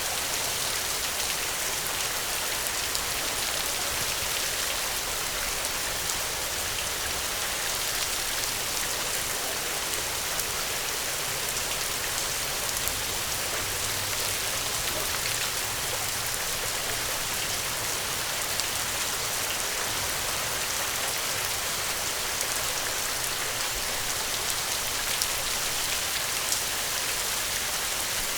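Steady rainfall: an even hiss of rain with many fine drop ticks scattered through it.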